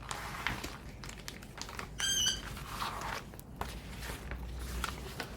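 Light rustling and crinkling of plastic kit packaging being handled, with one short high-pitched squeak about two seconds in.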